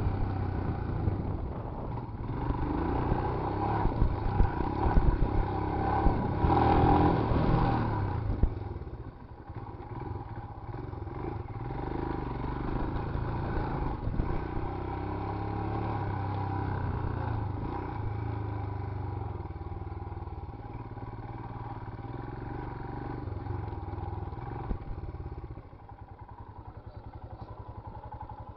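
Royal Enfield Himalayan motorcycle engine running on an off-road track, louder for the first several seconds, then easing off, and dropping to a quieter, even pulsing near the end.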